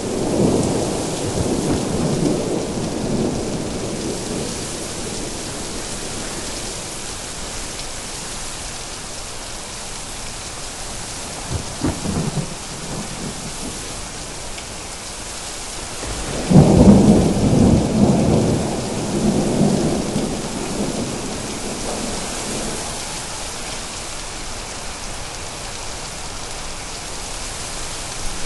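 Thunderstorm: steady rain hissing throughout, with rolls of thunder rumbling over it, a short one about twelve seconds in, and the loudest and longest a little past the middle.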